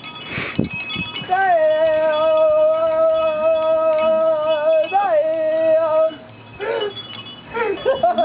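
A voice holding one long, steady sung note that slides up into pitch and is held for about five seconds. Just before it there is a brief burst of sound, and near the end quieter broken vocal sounds follow before the note starts again.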